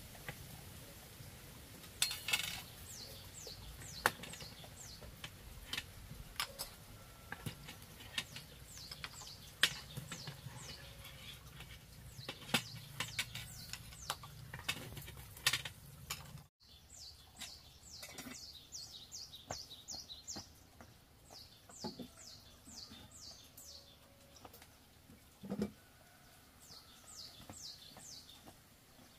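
A bird calling in repeated runs of short, high chirps, each falling in pitch, about four or five a second. Scattered sharp clicks and knocks sound throughout, and there is a brief dropout about halfway through.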